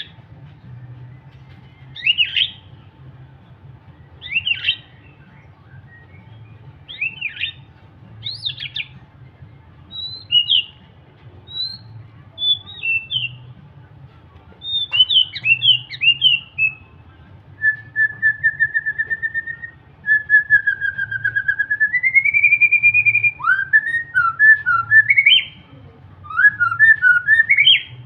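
White-rumped shama singing: a varied run of short whistled phrases and chirps, with a long fast trill in the middle that steps up in pitch, then quick rising notes.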